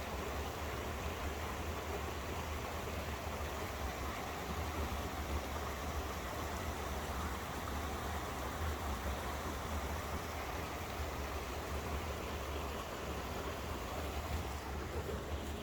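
Small stream cascade rushing steadily: continuous running-water noise with a low rumble underneath.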